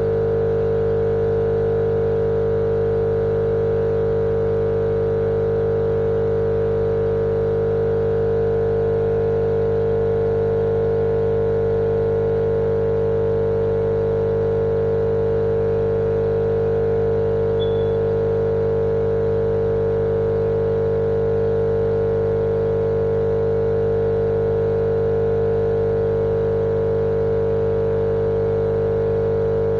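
Steady, unchanging drone of a baby-sleep white-noise track: one strong mid-pitched tone over a dense hum of fixed lower and higher tones, like a motor running without pause.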